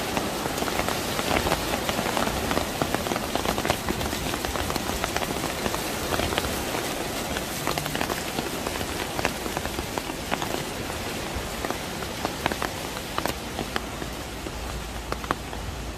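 Steady rain falling on wet pavement: a dense hiss dotted with many sharp taps of single drops, easing slightly toward the end.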